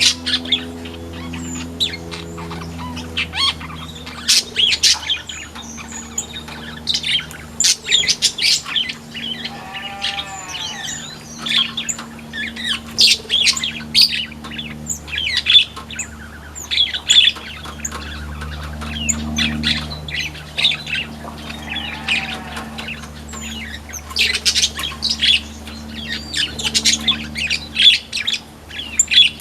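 Aviary flamboyan birds calling: a constant run of short, sharp chirps and squawks, with a couple of longer arched calls. A steady low hum runs underneath.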